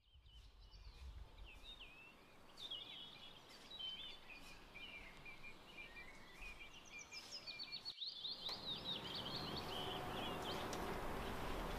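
Small birds chirping and twittering in many quick, sliding notes over a faint steady background hiss; about eight seconds in the hiss becomes louder and the twittering denser.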